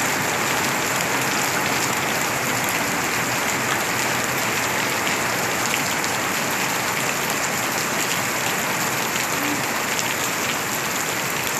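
Heavy rain pouring down steadily and splashing on wet ground.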